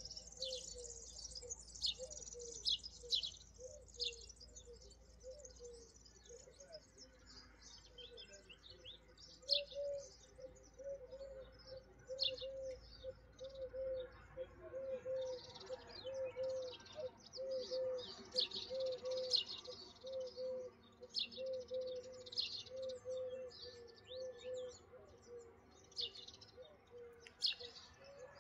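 Small birds chirping, with many short high chirps throughout. From about ten seconds in until near the end, a lower, evenly repeated call runs underneath.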